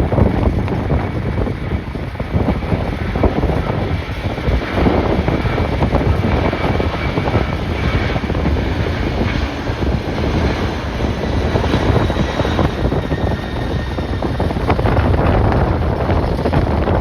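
Strong gusty wind buffeting the microphone, with a jet airliner's engines running under it as a steady rush and a faint high whine.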